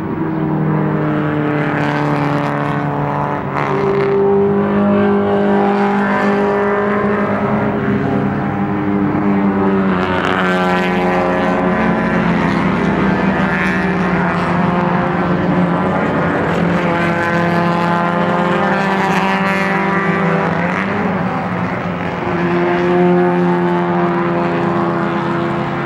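Several small-displacement vintage racing cars (pre-1973 small-bore sports cars and sedans) running at racing speed, their overlapping engine notes rising and falling as the cars pass one after another.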